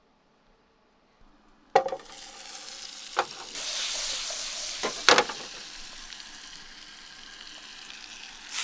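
Pieces of salmon laid into a hot pan, starting to sizzle with a sudden hiss about two seconds in, then frying steadily, with a few sharp knocks of a utensil against the pan.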